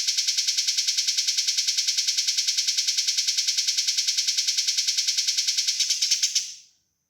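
Eurasian tree sparrow giving its fast, dense fighting chatter: a rapid, even string of high chirps, about ten a second, that cuts off about six and a half seconds in.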